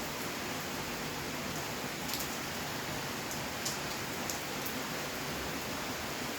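Steady rainfall, an even hiss of rain with occasional distinct drop ticks close by.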